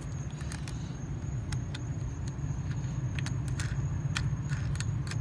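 Scattered light clicks and knocks of hand tools and intake parts being handled and fitted, over a steady low rumble.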